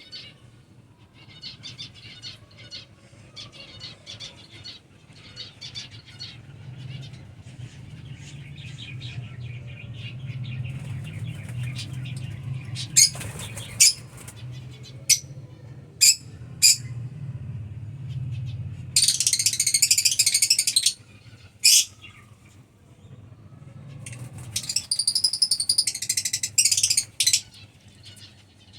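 Albino black-eyed lovebirds chirping, with wing flutters and sharp clicks in the middle, then two bursts of dense shrill chattering in the second half. A low steady hum runs underneath.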